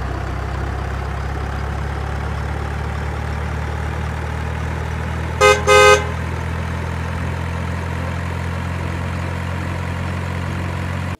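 Truck engine sound effect running steadily at idle, with two short horn toots about halfway through.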